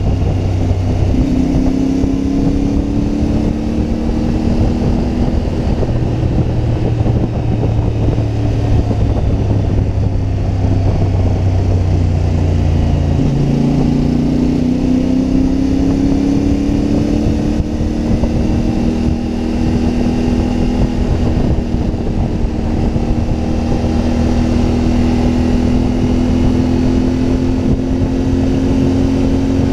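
CFMoto 450MT motorcycle's parallel-twin engine running under way. Its pitch climbs slowly, drops sharply about halfway through and then climbs again as the bike gets back on the throttle.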